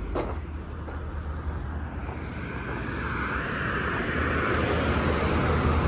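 Vehicle noise: a steady low rumble with a hiss that grows gradually louder, with a brief click just at the start.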